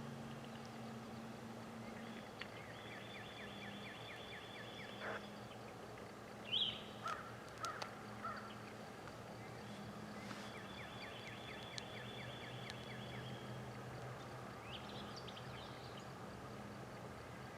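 Songbirds singing: two long, rapid trills of repeated notes about seven seconds apart, with a few short sharp chirps between them, over a faint low steady hum.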